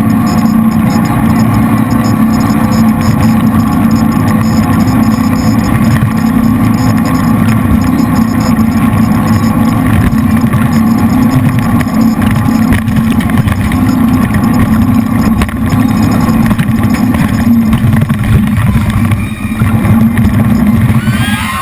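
Jet boat powered by three V8 engines running steadily at speed, a loud, even engine and water-jet noise.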